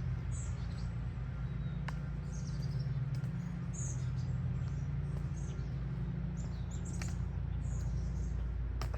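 Small birds chirping repeatedly in short, high, falling notes, over a steady low rumble, with a few sharp clicks.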